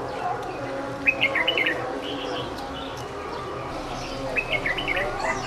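A small bird chirping a short, quick phrase twice, about three seconds apart.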